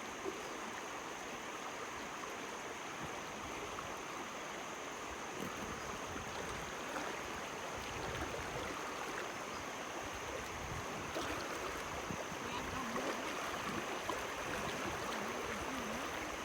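Steady rushing of a flowing stream over rapids, with a steady high-pitched tone above it.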